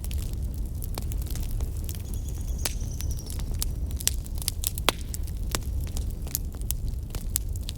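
Fire burning in a fireplace, crackling with many sharp irregular pops over a steady low rumble. A faint high whistle sounds for about a second, about two seconds in.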